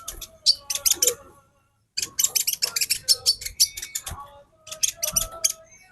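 Female sunbird (Indonesian 'kolibri konin') calling in rapid runs of sharp, high chips, with a brief pause about a second and a half in.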